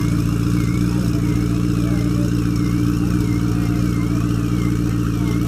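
Turbocharged McLaren engine idling steadily, with no revving.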